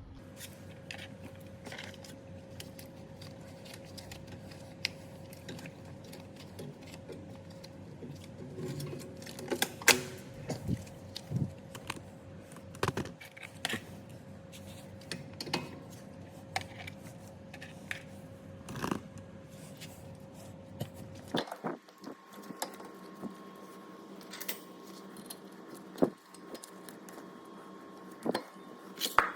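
Irregular metallic clicks, clinks and knocks of hand tools working on car brake parts, over a faint steady hum. About twenty seconds in, the background changes abruptly.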